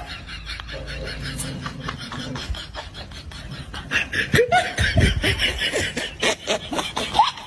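A person laughing and snickering, over many short sharp clicks.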